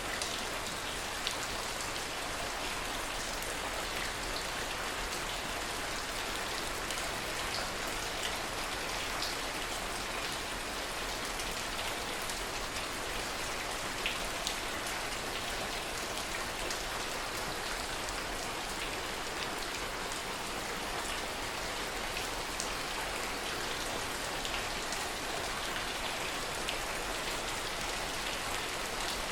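Steady heavy rain, a dense even hiss with scattered sharper drop ticks standing out now and then.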